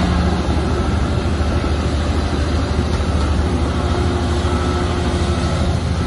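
Heavy diesel earthmoving machinery running steadily, a deep, even engine drone.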